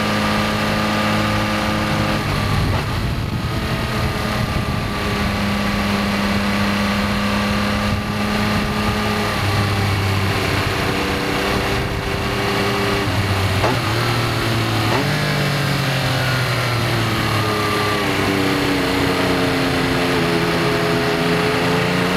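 Benelli Tornado Tre 900's inline-three engine running under way, its note mostly holding pitch. Pitch shifts quickly twice about two-thirds through, then falls slowly and climbs again near the end.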